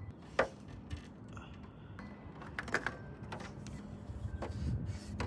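Scattered light clicks and knocks of metal and tools, with a rustling scrape building near the end, as the oil filter is being worked off a motorcycle engine.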